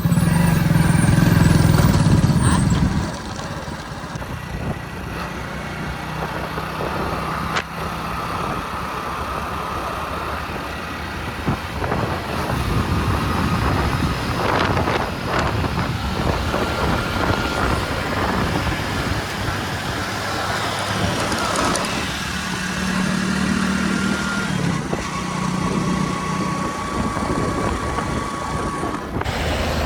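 Heavy diesel machinery running: a backhoe loader and dump truck engines, loud for the first three seconds and then steadier.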